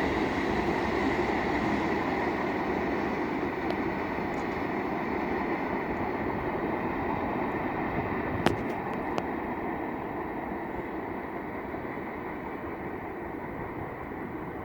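Freight train rolling by on the main line, a steady rumble of wheels on rail that slowly fades as the train moves away. One sharp click about eight and a half seconds in.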